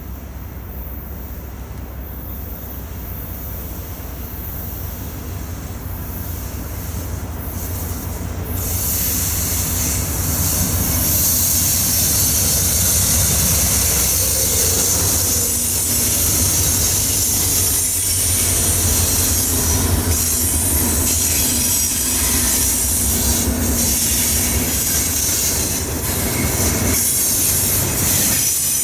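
A train rolling past on the rails, its low rumble growing louder over the first third. From then on the wheels squeal high and steady, with knocks of the wheels passing over the rail joints.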